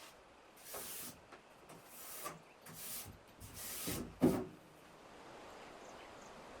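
A series of rough rubbing or scraping strokes, about five in three seconds, ending in a louder one with a dull knock.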